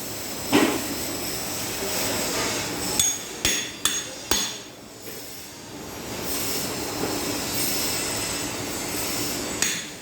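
Hammer blows on the metal parts of a twin-lobe compressor being taken apart: one heavy knock about half a second in, then four sharp, ringing metal strikes in quick succession around three to four seconds in, over a steady background noise.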